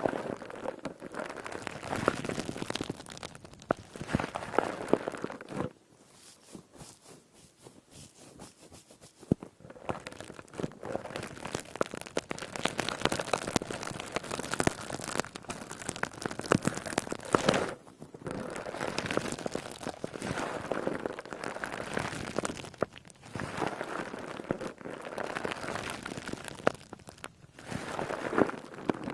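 A squishy, crackly sponge squeezed and worked close to the microphone, giving dense, crisp crunching and crackling in bouts of several seconds. There is a quieter lull about six seconds in.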